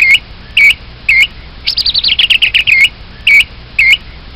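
A thrush singing: short swooping notes, twice, then a quick run of about ten notes falling in pitch, then three more short swooping notes.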